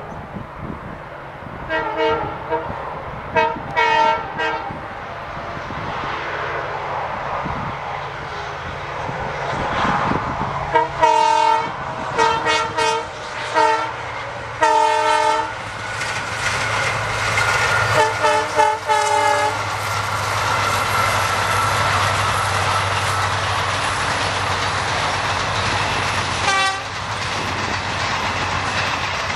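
Indian Railways diesel locomotive sounding its multi-tone horn in a series of short blasts, some in quick pairs and triplets, as a train approaches. From about halfway the engine and train rumble grows into a steady passing roar with a low engine hum, and a last short horn blast comes near the end.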